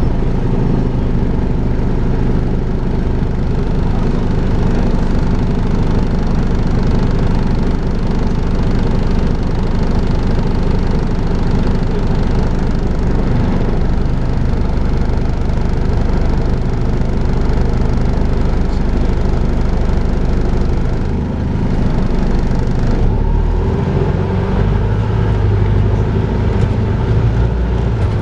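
Volvo B5LH diesel-electric hybrid double-decker bus running in service, its drivetrain giving the steady vacuum-cleaner-like 'hoover' drone. The level dips briefly a little past two-thirds of the way in.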